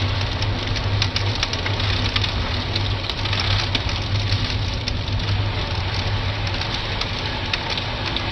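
Miele Blizzard CX1 bagless cyclonic canister vacuum cleaner running steadily, a whooshing airflow over a strong low motor hum, with many small ticks throughout.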